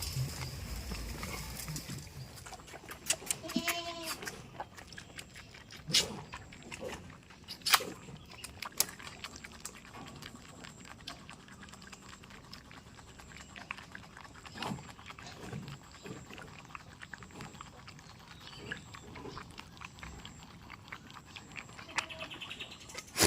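Farm goats, with one short bleat about three and a half seconds in and another near the end, among scattered knocks and rustling.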